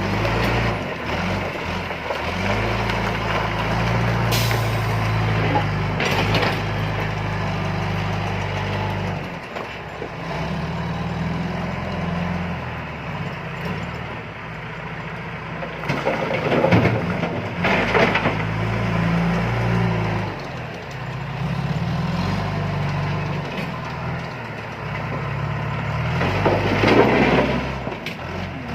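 John Deere 310E backhoe loader's diesel engine running under load, its pitch rising and falling as the hydraulics work. Several loud rattling bursts of stones being loaded, the biggest near the middle and near the end.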